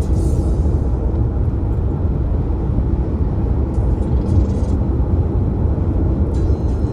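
Steady low rumble of a moving car, without change or distinct events.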